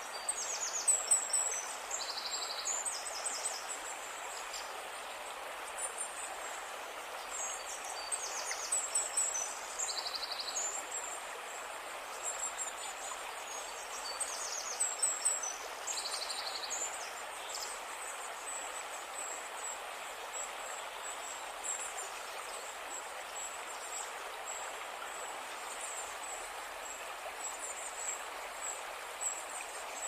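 Outdoor ambience: a steady hiss with high-pitched bird chirps and short trills, frequent in the first half and sparse after, over a faint steady high whine.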